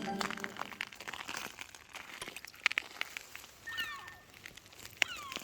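An animal giving short calls that glide down in pitch, one group past the middle and another near the end, over scattered sharp clicks and crackles. Bowed-string music ends right at the start.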